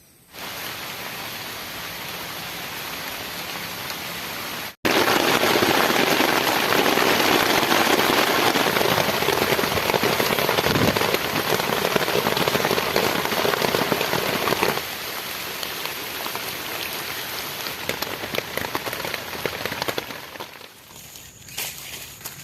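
Heavy rain falling, in a few cut-together takes: it starts suddenly, jumps much louder after about five seconds, drops back after about fifteen, and fades near the end.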